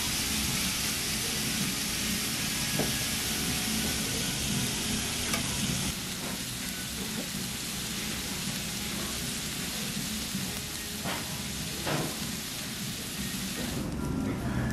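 Pork belly and vegetables sizzling on a hot flat griddle, with a few light clicks of metal tongs. The sizzle drops a little about six seconds in.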